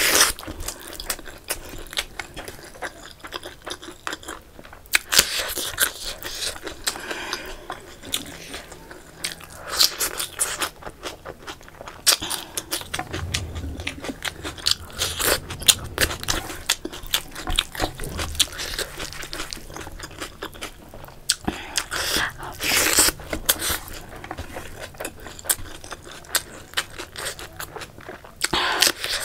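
A person chewing mouthfuls of rice and chicken curry eaten by hand, with wet chewing clicks and crunches and a few louder crunches now and then, one near the end as a green chili is bitten.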